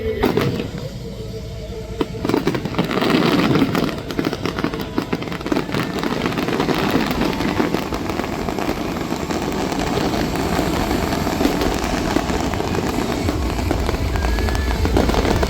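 Fireworks display going off in a dense barrage: a sharp bang at the start and another about two seconds in, then a continuous crackle of many small bursts.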